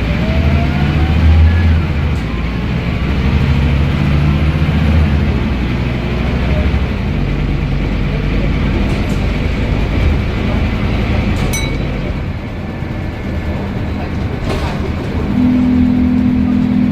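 Scania N230UD double-decker bus under way, its engine droning low with the whine of its ZF Ecomat automatic gearbox rising in pitch and fading out in the first second or two. A steadier, stronger low engine note sets in near the end.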